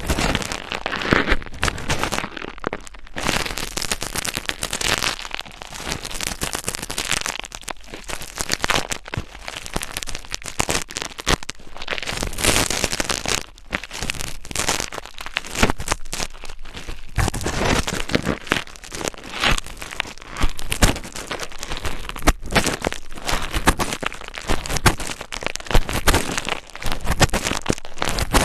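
Close-miked ASMR scratching on the microphone: dense crackling and rasping that stops briefly every few seconds.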